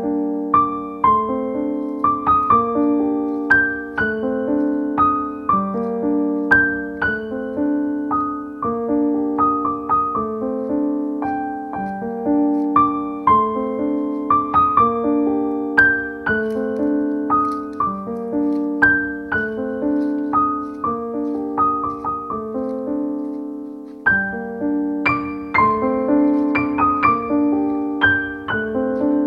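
Background piano music: a gentle melody of single struck notes over a repeating accompaniment, with a brief dip about 24 seconds in.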